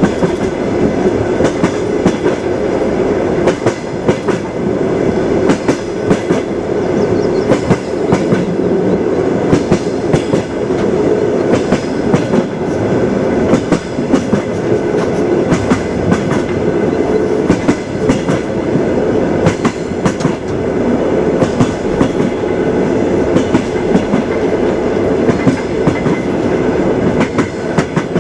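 Moving train: a steady rumble with the frequent clatter of the wheels striking rail joints.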